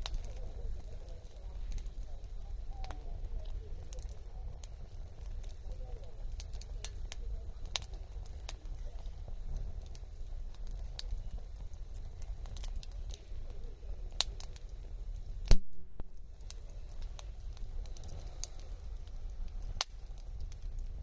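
Wood fire crackling, with scattered sharp pops over a steady low rumble. About fifteen seconds in there is one loud knock, and the sound cuts out for a moment.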